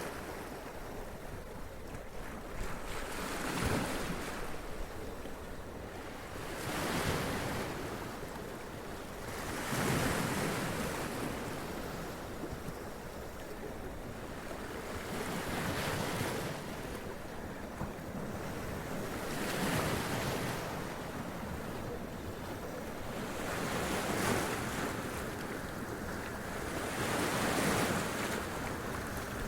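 Sea waves running up onto rocks and splashing, each surge swelling and washing back, one every three to four seconds, with wind on the microphone.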